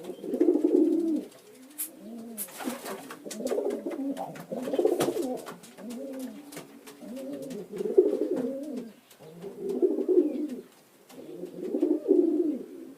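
Pigeons cooing in repeated low, rolling bouts, several birds overlapping, with scattered light clicks.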